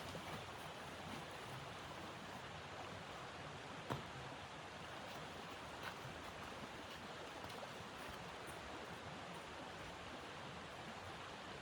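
Steady, even hiss with a sharp click about four seconds in and a fainter one about two seconds later.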